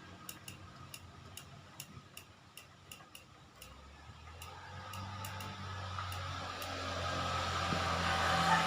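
Light, rapid ticking about three or four times a second, then a motor vehicle engine that grows steadily louder through the second half.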